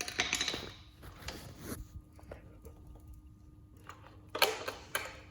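Clatter and rustle of hands working an electric scooter's battery and wiring into its compartment, with a burst of knocks at the start and another about four and a half seconds in.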